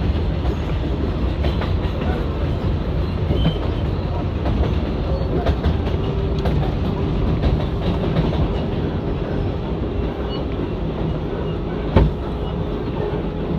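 Ride noise inside an R188 subway car in motion: wheels running over the rails with scattered clicks at the joints and a faint steady whine through the middle. There is one sharp knock about twelve seconds in.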